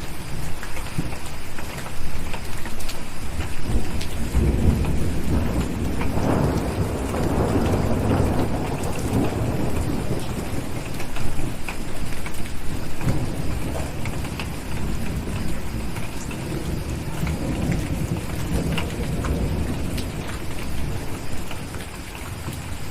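Steady rain with a long, deep roll of thunder that swells a few seconds in and slowly dies away.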